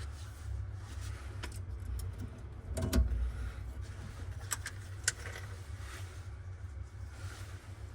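Scattered light metal clicks and clinks of tools and faucet fittings being handled during a kitchen faucet installation, the loudest knock about three seconds in, over a steady low hum.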